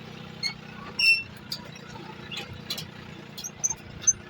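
Tractor engine idling steadily with a low hum, with scattered sharp clicks and a few short high chirps over it.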